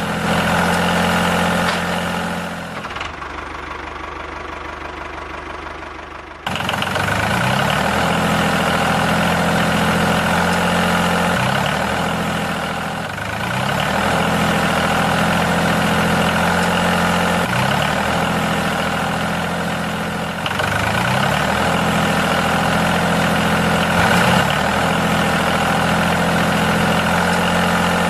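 An engine idling steadily, with low surges repeating about every two seconds. It drops to a quieter, thinner sound for a few seconds near the start, then comes back.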